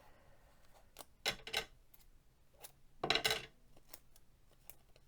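Tape pulled off a roll twice in short rasping tears, about a second in and again about three seconds in.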